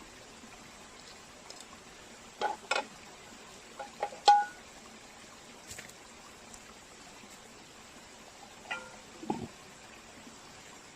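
Wood campfire burning with a steady low hiss, broken by a few sharp cracks and clinks in small clusters; the loudest, about four seconds in, rings briefly.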